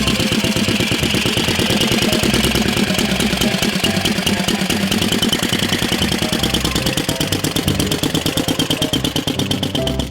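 1912 Flanders 4 motorcycle's single-cylinder engine running at idle, a steady train of even firing beats that slows slightly near the end.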